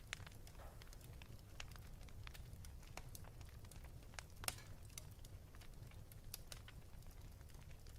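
Wood fire in a fireplace crackling, with irregular sharp pops, the loudest about four and a half seconds in, over a low steady rumble.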